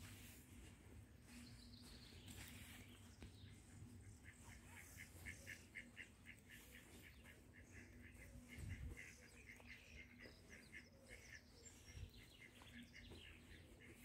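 A bird calling faintly: a long run of short, repeated high notes, about four a second, starting a few seconds in and trailing off near the end.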